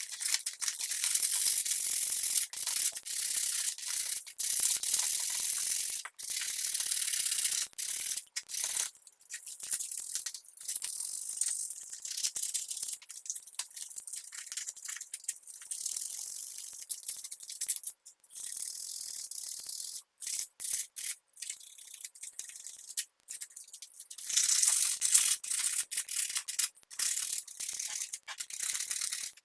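Stiff brush scrubbing a hard surface in quick, uneven strokes, a scratchy hiss that stops and starts several times, with short breaks just before and after the middle.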